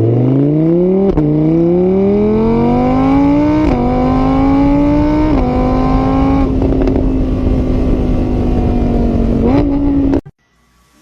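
Car engine accelerating hard, its pitch climbing and dropping back at three upshifts, then holding steady before a short rise. The sound cuts off suddenly near the end.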